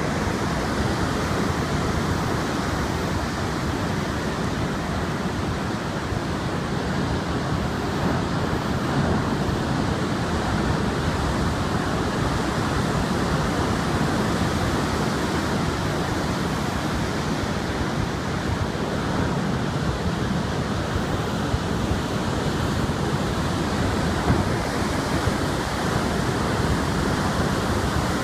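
Typhoon surf breaking on a beach together with strong wind, a steady dense rush of noise without pauses.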